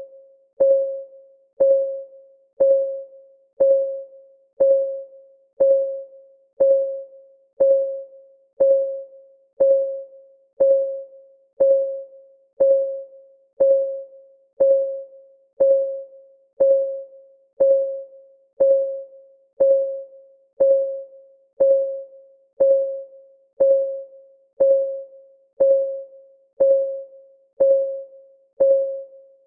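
Clock ticking sound effect of a countdown timer: a short, pitched tick once a second, each dying away quickly, in an even, unbroken rhythm.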